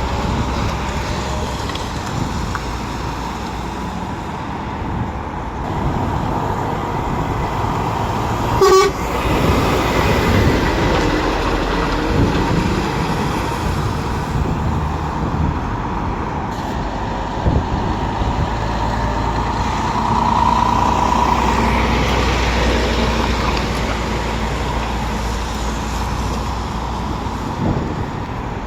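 Lorry engines running with steady low rumble, and a short horn toot about nine seconds in.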